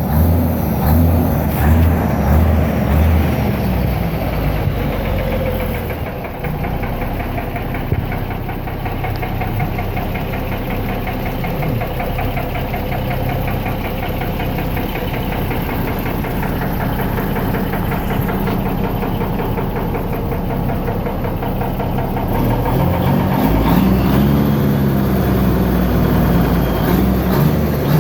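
Truck engine running steadily, its pitch rising and falling near the start and again in the last few seconds.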